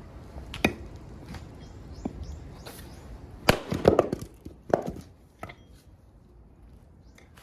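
Axe striking and splitting firewood: a handful of sharp, separate knocks, the loudest coming in a quick cluster about three and a half to four seconds in.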